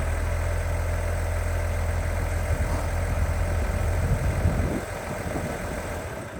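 Case IH Maxxum 140 tractor's diesel engine idling with a steady low rumble, which drops away about three quarters of the way through.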